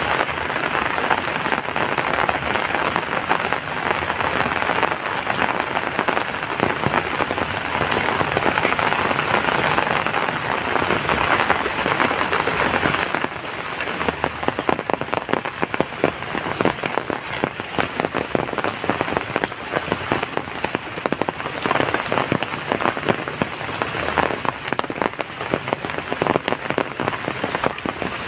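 Heavy rain falling in a dense, steady hiss full of individual drop strikes. About halfway through, the hiss thins a little and the separate patter of drops stands out more.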